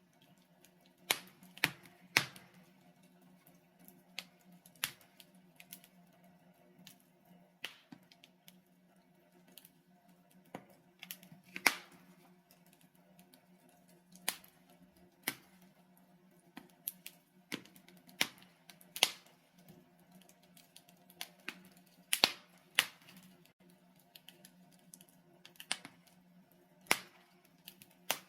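Wood logs burning in a fireplace, crackling with sharp irregular pops, roughly one every second or two and some louder than others, over a faint steady hum.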